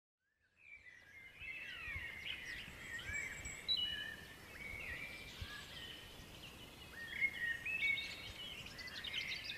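Several birds singing at once, with overlapping chirps and short whistled phrases, over a faint low background rumble. It fades in about half a second in.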